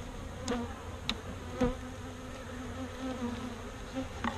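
Honeybees buzzing steadily in a low hum around an opened hive, with a few sharp clicks scattered through.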